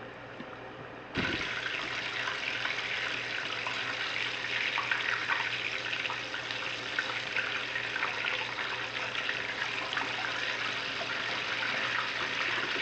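Panko-breaded chicken breasts frying in hot oil: a dense sizzle full of small crackles, which starts suddenly about a second in.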